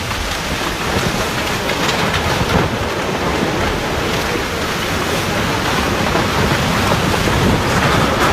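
Steady roar of rushing floodwater, a dense rumbling noise without breaks.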